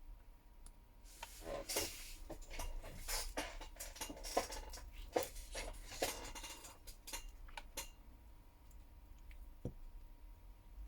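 Small hard clicks, taps and scraping as tools and phone parts (motherboard and camera modules) are handled on the work surface. The handling is busiest from about a second in to about eight seconds in, with one duller knock near the end.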